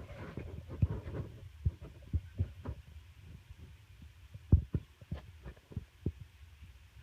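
Dogs playing, with irregular low thumps and scuffling as they tussle; the loudest knocks come about four and a half seconds in.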